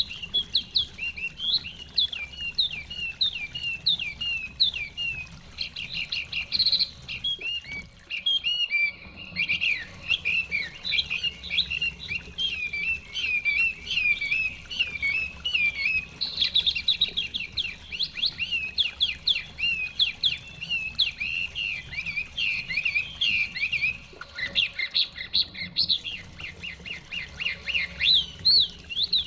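Chinese hwamei singing a fast, unbroken run of varied whistled and warbled phrases, pausing briefly about a quarter of the way in and again near the end.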